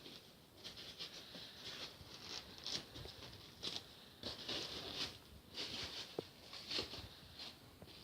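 Polystyrene foam pieces being handled, pressed and shifted into place on glue, giving faint, irregular scraping and rustling.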